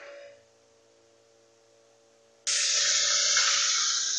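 Wet garlic-ginger-onion masala paste dropped into hot tadka oil in a steel kadhai: a sudden loud sizzle starts about two and a half seconds in and holds strong. There is a short tap right at the start.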